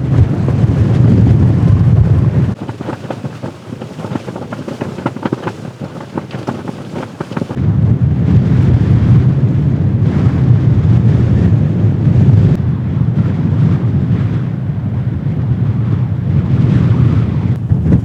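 Strong blizzard wind buffeting the microphone with a heavy low rumble. For a few seconds, from about a quarter of the way in, the rumble drops away to a quieter stretch of rapid fluttering ticks before the wind noise comes back in full.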